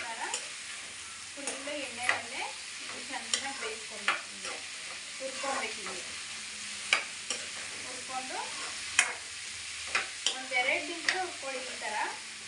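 Drumstick pieces frying in oil in a kadai, a steady sizzle, while a spatula stirs them, scraping and knocking against the pan in irregular clicks.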